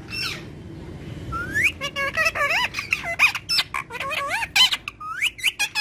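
Pet parrot squawking and chattering: one short call at the start and a single rising call a little over a second in, then a quick run of warbling, up-and-down calls.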